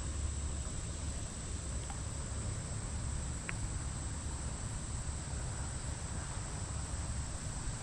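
Insects, crickets or the like, trilling in a steady high-pitched drone, over a low rumble, with one faint click about three and a half seconds in.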